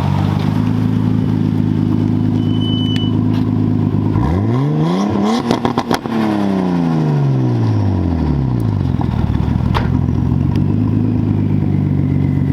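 Nissan Skyline R34 GT-T's turbocharged RB25 straight-six idling, then revved once. The revs climb quickly for about two seconds and fall back slowly to idle. At the peak there is a brief rapid chatter as the throttle closes: the turbo flutter of its blocked-off blow-off valve.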